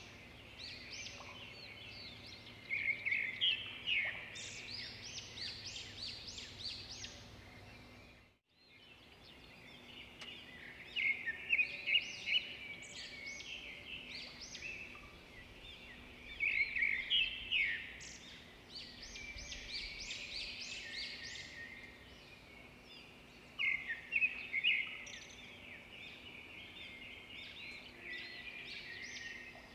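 Small birds chirping and twittering in quick bursts every few seconds, over a faint steady hum. The sound cuts out briefly about eight seconds in.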